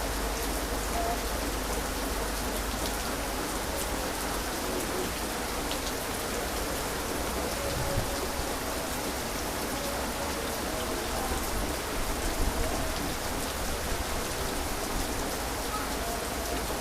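Heavy rain falling steadily, with the patter of drops on surfaces and a few sharper drop hits.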